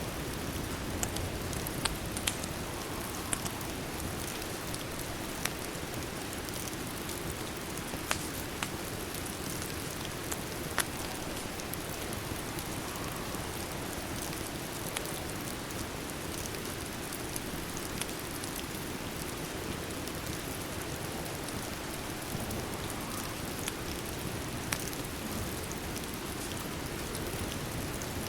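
Steady rain, with scattered sharp crackles and pops from a wood fire every second or two.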